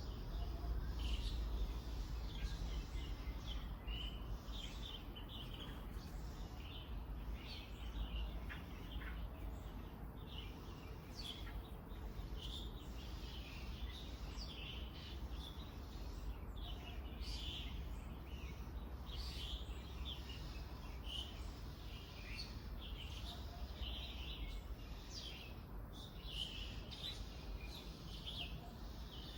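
Small birds chirping and tweeting, many short calls one after another, over a steady low background rumble.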